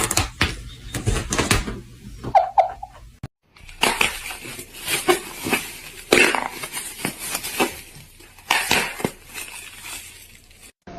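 Irregular clattering and knocking of hard objects, with sharp knocks at uneven intervals and a brief cut to silence about three seconds in.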